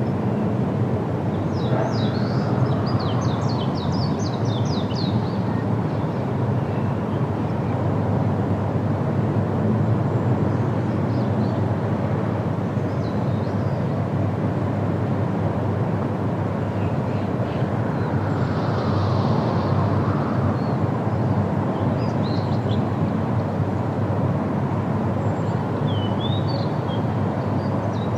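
Steady wind noise with birds chirping over it: a quick run of chirps a few seconds in, then a few scattered calls later.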